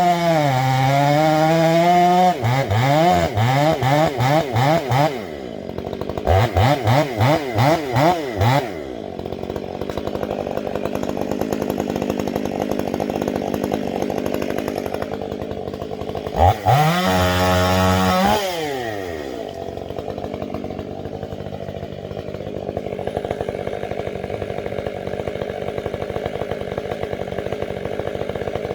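Two-stroke chainsaw. Its pitch sags and recovers near the start, then comes a string of quick throttle blips, rising and dropping about twice a second. It settles into idle, revs up and drops once more about two-thirds through, and idles again.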